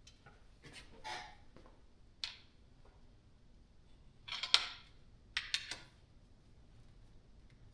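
Scattered knocks and clanks of a big pry bar working against the disassembled bottom end of a Chevy 350 small-block: a few light taps, one sharp clank about four and a half seconds in, then a quick run of three or four knocks about a second later.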